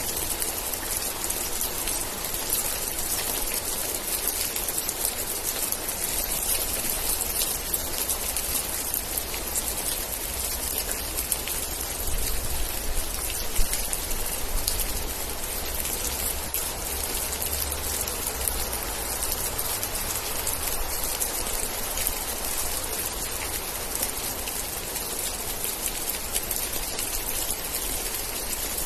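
Steady rain falling, with dense fine drop patter on surfaces and a low rumble between about twelve and eighteen seconds in; one sharp louder drop tick about halfway through.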